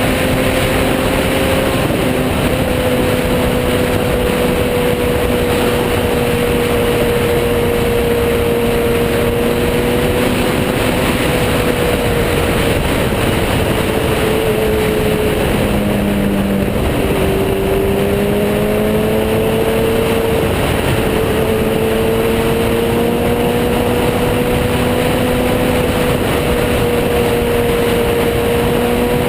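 Motorcycle engine running at a steady cruising speed over a constant rush of wind and road noise. A little after halfway the engine note drops, as on easing off, then climbs back up and holds.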